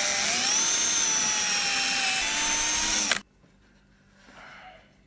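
Power drill boring a hole into two strips clamped together in a vise. The motor's whine rises in pitch as it comes up to speed, runs steadily for about three seconds, then stops abruptly.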